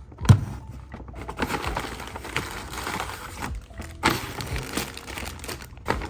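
Packaging being handled: dense crinkling and rustling of plastic or paper, with a sharp thump about a third of a second in, over faint background music.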